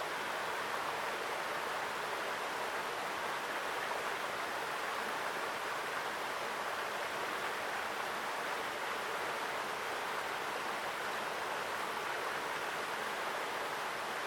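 Mountain stream running strongly: a steady, full rush of water that does not let up.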